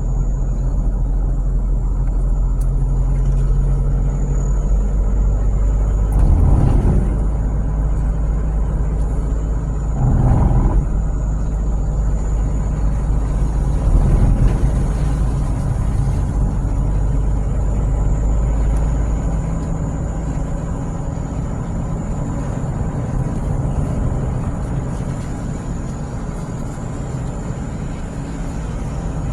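Steady road and engine rumble inside a moving car, with a few short louder swells as it goes over bumps or changes speed.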